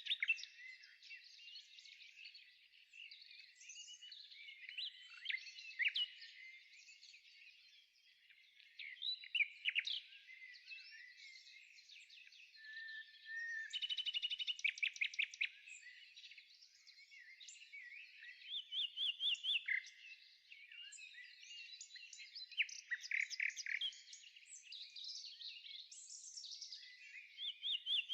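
Songbirds singing: a busy mix of chirps and quick trills, all high-pitched, with short bursts of rapid repeated notes.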